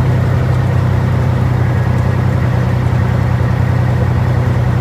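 Caterpillar C15 Acert diesel engine of a Peterbilt 379 truck running steadily with a constant low drone, most likely idling.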